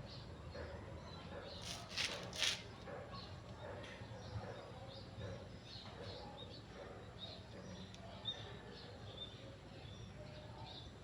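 Small birds chirping, with short high chirps repeating throughout. About two seconds in, two short sharp knocks.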